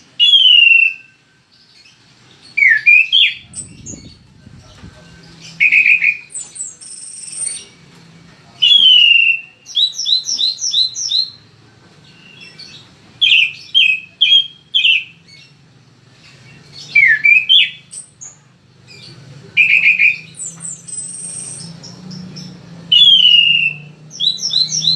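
Orange-banded thrush (anis cendana, Geokichla peronii) singing loudly. Its song is short phrases every few seconds, slurred whistles that slide down in pitch, alternating with quick runs of four or five repeated notes.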